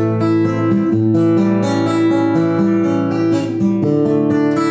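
Acoustic guitar strumming and ringing chords that change every second or so, an instrumental passage of a sung-poetry song with no voice.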